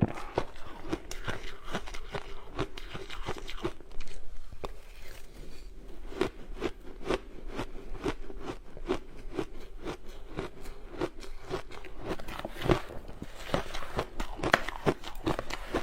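Ice being bitten and chewed close to the microphone: a quick, irregular run of sharp crunches and crackles, with a few louder bites along the way.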